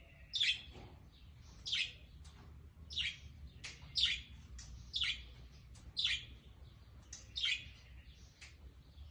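Lovebirds giving short, shrill chirps, about one a second.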